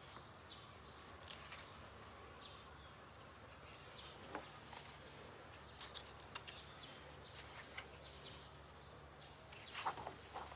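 Faint rustling and light handling sounds of coloring book pages being turned and held, in short scattered bursts over a low steady background hum.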